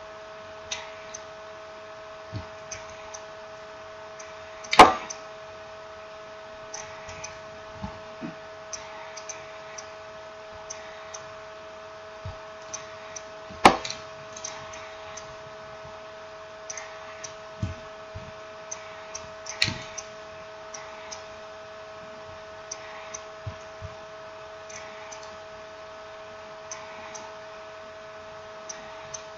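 Small clicks and taps of smartphone parts and tools being handled on a hard work surface during reassembly, with sharper knocks about five and fourteen seconds in and a smaller one near twenty seconds. A steady two-note electrical hum runs underneath.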